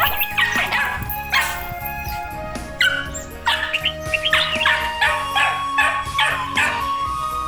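A dog barking in short, quick calls, a run of about six in a row midway through, over background music.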